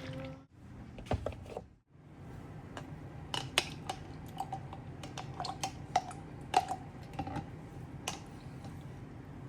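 Kitchen dishes and utensils being handled: a string of light clinks and taps, several with a short ringing tone like glass or ceramic, most of them between about three and eight seconds in.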